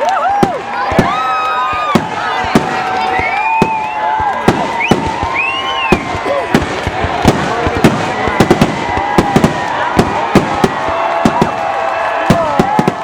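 Aerial fireworks display: a rapid, irregular barrage of bangs and crackling reports, several a second, with gliding whistling tones over them.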